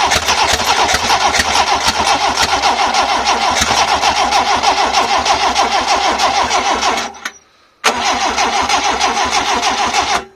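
Starter motor cranking a rebuilt Toyota 2E 1.3-litre four-cylinder engine on twin Weber DCOE carburettors, in a steady rapid rhythm, without the engine catching: fuel has not yet come through after it sat for a while. It cranks for about seven seconds, stops briefly, then cranks again for a couple of seconds.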